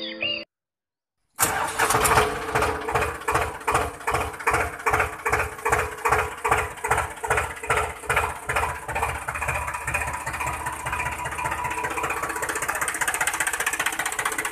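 Diesel tractor engine starting: it catches about a second in with slow, heavy chugs that quicken into a steady fast idle.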